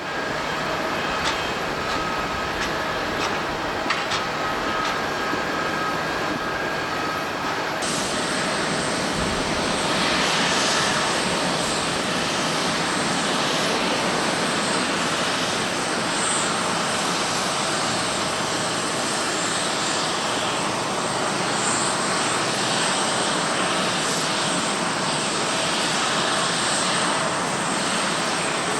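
Jet airliner engines running, a steady loud rush of noise with faint whining tones. A few faint clicks sound in the first seconds, and the sound changes abruptly about eight seconds in.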